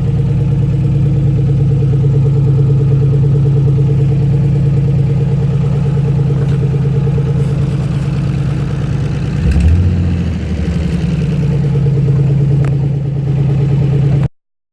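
Nissan Fairlady Z engine idling smoothly and evenly, with a brief rise in the engine note about ten seconds in before it settles back to idle. The sound cuts off suddenly near the end.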